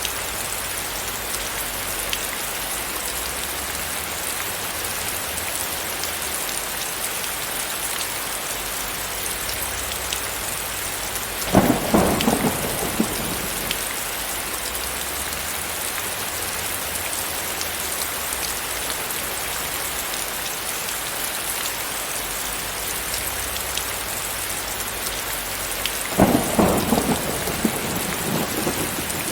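Steady rain falling, with two sudden claps of thunder about a dozen seconds in and again near the end, each lasting about two seconds.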